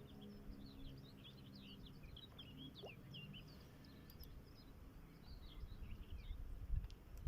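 Songbirds chirping and singing in many quick, short notes over a low hum, with a low rumble near the end.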